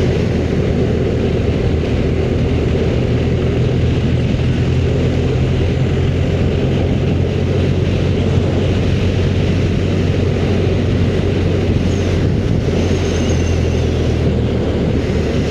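Motorcycle engine running steadily at cruising speed, with a constant rush of wind and road noise.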